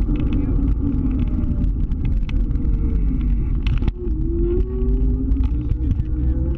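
Scooter under way, its motor note rising steadily as it gathers speed, dropping about four seconds in and rising again, over a heavy low rumble of wind and road.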